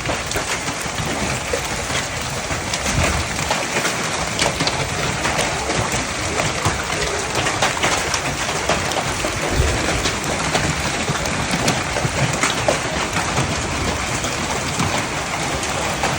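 Large hailstones, golf-ball sized, pelting down steadily with dense rain, a constant hiss full of sharp individual impacts.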